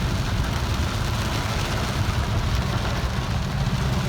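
Steady engine and road rumble heard from inside a moving vehicle, with an even hiss of rain and wet tyres on a flooded road.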